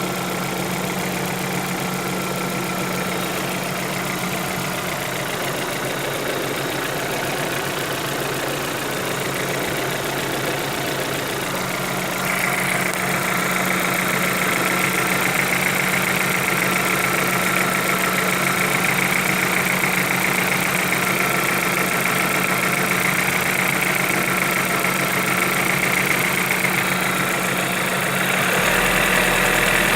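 Engine idling steadily, with a knock that the owner is trying to trace. It gets a little louder and brighter about twelve seconds in.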